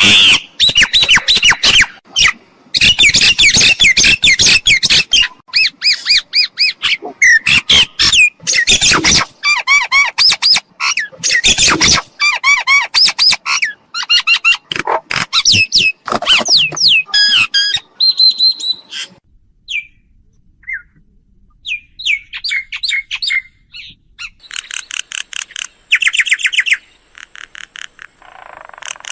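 Myna calling: a dense, loud run of chattering, squawks and whistled notes that thins out about 19 seconds in, followed by bouts of fast repeated notes near the end.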